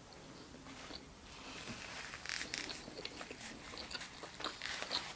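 A person chewing a mouthful of toasted sandwich with the mouth closed: faint crunching and small wet mouth clicks, busier after the first second or so.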